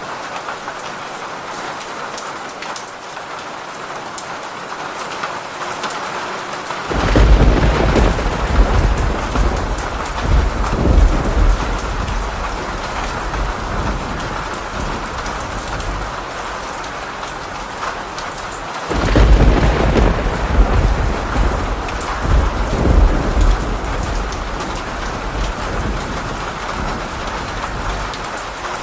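Steady heavy rain hissing on a surface, with two long rolling thunderclaps: one breaks about a quarter of the way in and the other just past the middle, each rumbling for several seconds before fading back into the rain.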